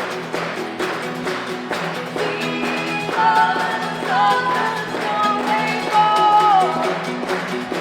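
Live band performing a song: guitars strummed to a steady beat, with singing coming in about three seconds in.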